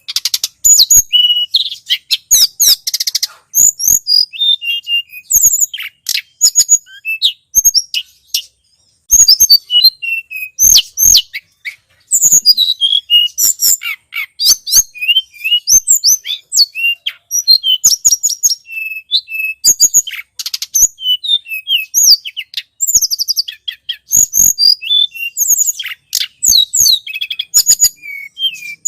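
Tledekan gunung (a flowerpecker) singing in a lively bird-lure recording: rapid, high-pitched chirps and short trills repeated almost without a break, pausing briefly about a third of the way in.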